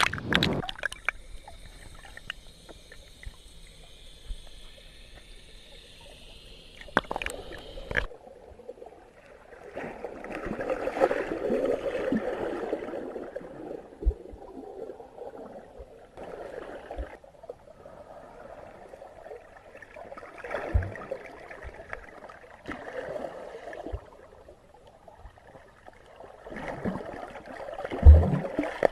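Muffled underwater sloshing and gurgling of sea water around a submerged GoPro camera, coming in waves. A faint high whine with clicks for the first eight seconds cuts off suddenly, and a thump comes near the end.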